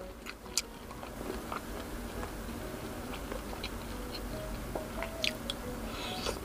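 Close-up mouth sounds of eating grilled skewered street food, likely isaw (grilled chicken intestine): chewing and biting, with small scattered clicks.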